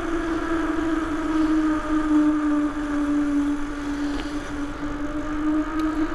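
A steady mechanical hum with overtones, dipping slightly in pitch midway and rising again, over low wind rumble.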